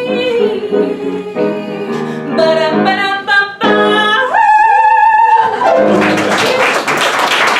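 A woman singing the closing line of a song over instrumental accompaniment, ending on a long, high held note with vibrato about four seconds in. Applause follows, starting about six seconds in.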